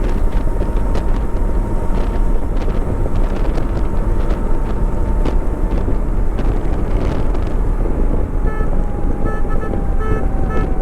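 Wind rushing over the action camera's microphone on a motorcycle at highway speed, with engine and road noise underneath and irregular buffeting. Near the end a few short high toots sound.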